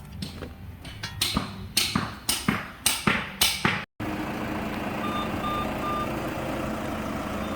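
A run of about seven sharp knocks, roughly two a second. After a cut comes a steady vehicle running noise with three short high beeps.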